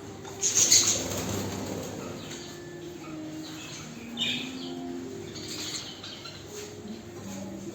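Budgies fluttering their wings in a colony cage, with a loud burst of flapping about half a second in and a few short chirps.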